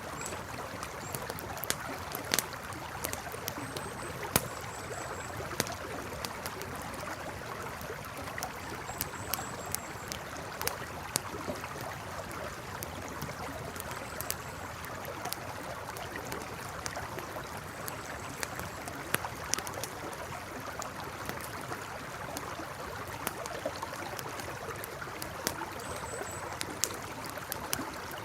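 Campfire crackling with irregular sharp pops over the steady rush of a flowing river.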